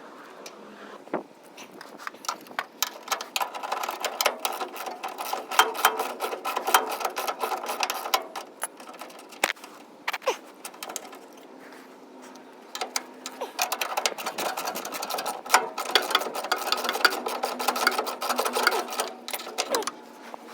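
Rapid mechanical rattling and clicking in two long bursts of about seven seconds each, with a quieter pause between them.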